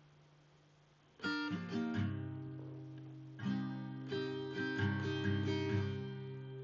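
Background music: acoustic guitar, strummed and plucked chords. A chord rings out and fades, then a new strum comes in about a second in and the playing carries on.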